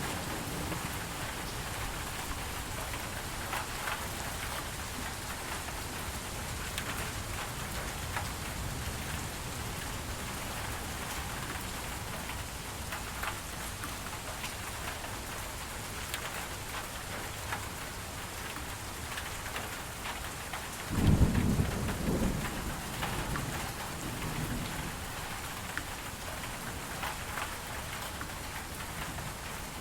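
Steady rain falling, with a short, low rumble of thunder about two-thirds of the way through that is the loudest moment.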